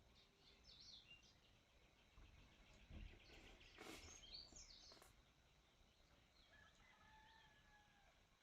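Near silence with faint bird chirps and whistles. A few short, faint noises come around the middle.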